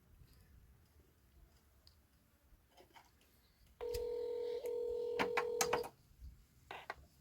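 Telephone ringback tone heard over a phone speaker, the line ringing at the other end while waiting for an answer. One ring lasting about two seconds comes about four seconds in, after a silent gap, followed by a few sharp clicks near the end.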